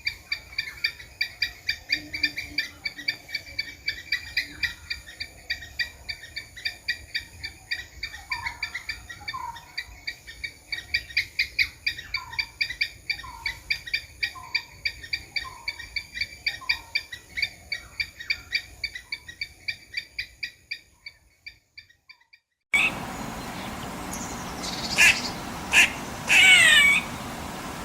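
Squirrel calls: a long, steady series of short chirps, two or three a second, with a few lower downward-sliding notes among them, fading out. After an abrupt cut, a few louder, drawn-out cries that slide in pitch over a background hiss.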